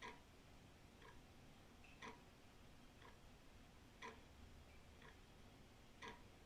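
Old wall clock's pendulum movement ticking steadily once a second, every other beat louder, giving an even tick-tock.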